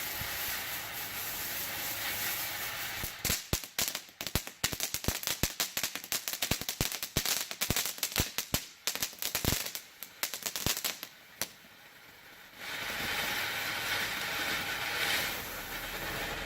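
Ground fountain firework spraying sparks with a steady hiss. A few seconds in, it turns to a rapid run of sharp crackling pops lasting about eight seconds. After a brief lull, the hiss starts again near the end.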